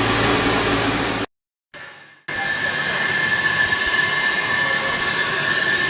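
Abrasive blast nozzle running on compressed air, a loud steady hiss. It cuts off suddenly about a second in, and after a short gap a similar hiss starts again with a steady high whistle in it.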